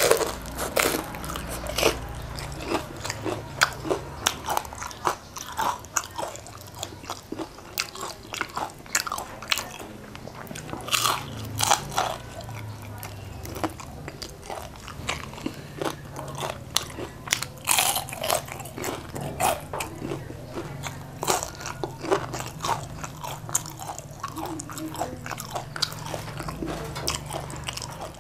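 A person biting into and chewing crispy battered fried chicken wings, picked up close by a clip-on microphone: a string of irregular sharp crunches with chewing between them.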